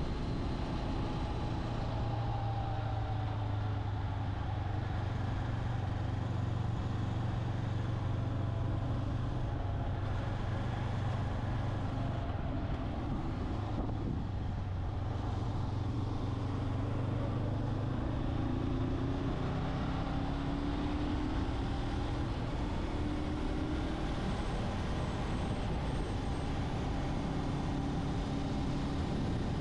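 Motorcycle engine running while riding, with wind rushing over the microphone. The engine note is steady and low for most of the time, then shifts and rises and falls from about halfway through.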